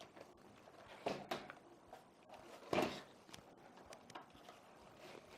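A few light clicks and knocks from handling a laptop during repair: a couple about a second in and a sharper one near three seconds, with quiet in between.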